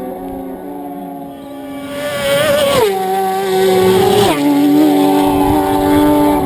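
Racing motorcycles passing at speed on a road course. The engine note swells about two seconds in, then drops sharply in pitch twice as they go by.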